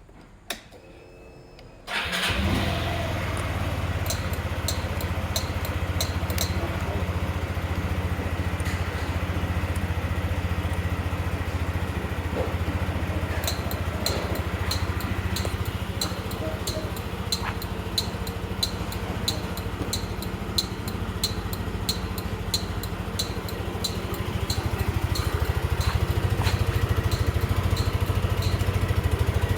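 Yamaha Majesty 125 FI scooter engine started: a click, then about two seconds in the engine catches at once and settles into a steady idle. The idle grows a little louder near the end.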